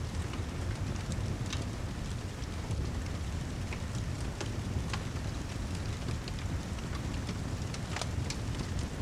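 Steady heavy rain with a deep, constant low rumble, mixed with a fireplace crackling in scattered sharp pops.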